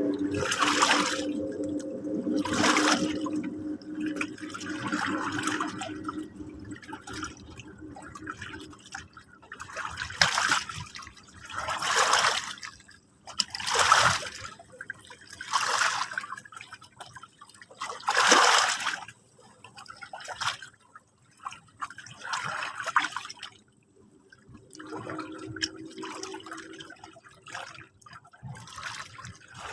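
Small sea waves washing in, one after another every couple of seconds, each a rush of surf that swells and falls away.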